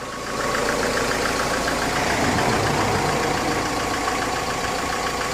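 Remanufactured Mercedes OM646 four-cylinder diesel in a Sprinter van idling steadily, a little louder from about half a second in; a freshly fitted engine that sounds very good.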